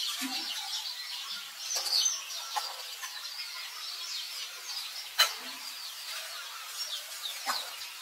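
Birds chirping, with many short high chirps overlapping throughout. A few sharp clicks cut across them, the loudest a little past five seconds in.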